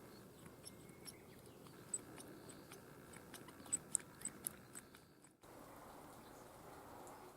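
Faint scattered light clicks and ticks over low background noise, a few louder ones about four seconds in, stopping in a short dropout after about five seconds.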